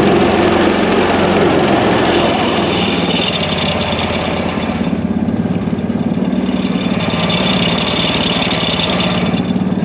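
Predator 212 single-cylinder four-stroke engine running steadily in a homemade mini jet boat, its sound growing brighter twice, about three and seven seconds in.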